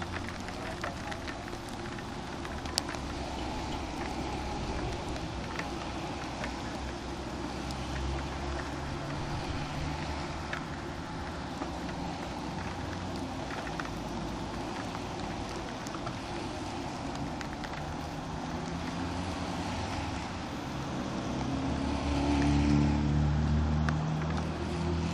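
Yamaha XTZ 125 single-cylinder four-stroke motorcycle engine running steadily while riding, under a constant rush of noise. The engine gets louder about 22 seconds in, then eases off.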